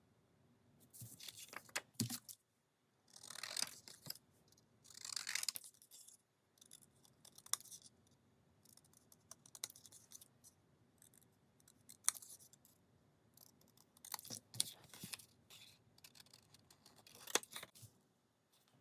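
Paper being handled at a craft table: scrapbook paper rustling and crinkling in short irregular bursts, mixed with light clicks and taps.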